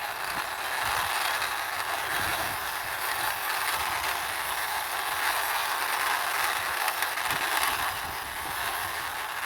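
Toy police car pushed by hand along a surface, its small wheels rolling with a steady, even noise.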